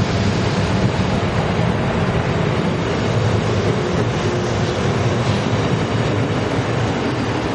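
Taiwan Railways silver-and-blue electric commuter train rolling along the platform: a steady, loud rumble of wheels on rail with some clickety-clack from the rail joints.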